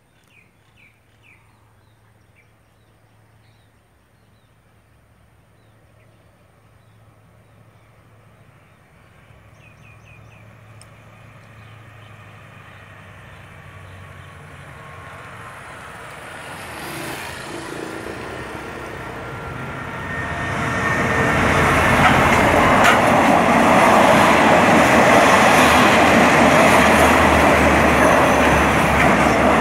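A special express train hauled by two diesel locomotives approaching and passing close by. It grows steadily louder for about twenty seconds, then rushes past loudly as the locomotives and carriages roll along the rails.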